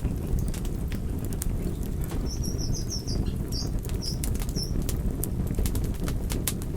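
Wood fire burning: a steady low rumble of flames with frequent sharp crackles and pops. Around the middle comes a quick run of about seven short, high chirps.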